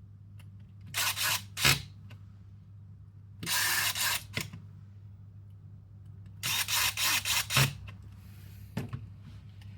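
Electric screwdriver running in short bursts, driving in the screws that close an airsoft gearbox casing: three runs, about a second in, at three and a half seconds, and at six and a half seconds, the last a string of quick pulses. A steady low hum runs underneath.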